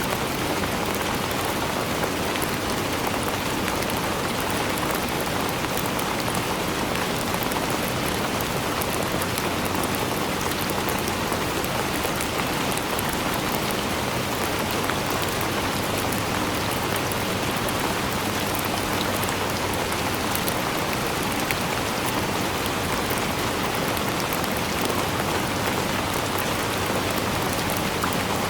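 Steady rainfall, dense and unchanging, with fine drops ticking on a surface.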